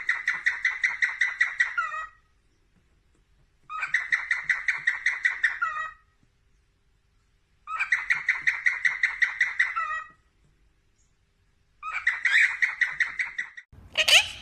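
A parrot calling in rapid pulsed trills of about seven beats a second, four bouts of about two seconds each with short pauses between. Near the end a different, louder call with sliding pitches cuts in.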